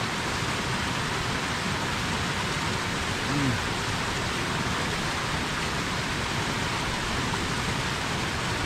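Steady rushing of a waterfall, an even hiss of falling water. About three and a half seconds in, a person makes a brief low voice sound.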